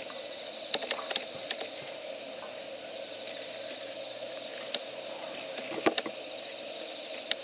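Wood fire crackling, with scattered sharp pops from the burning wood (the loudest about six seconds in), over a steady high hiss.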